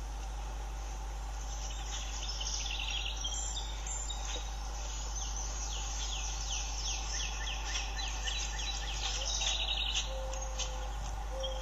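Songbirds singing, with runs of quick down-slurred notes repeated many times, over a steady low hum.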